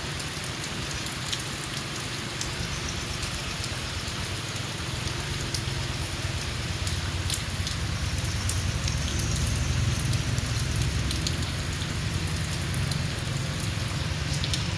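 Heavy rain falling steadily, a dense hiss with scattered sharp drop hits and a low rumble underneath, a little heavier in the middle.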